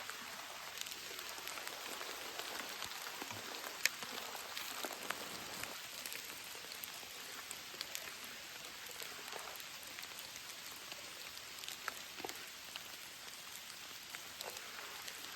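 Rain falling steadily, a constant patter of drops with many single drops ticking sharply; one louder drop hits about four seconds in.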